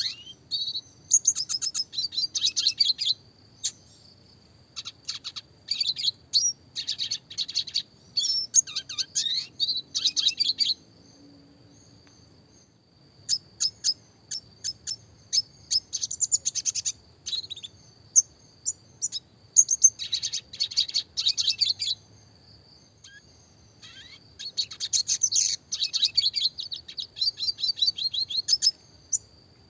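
Red siskin song: rapid high twittering phrases and fast trills, in clusters of a second or two with short pauses between.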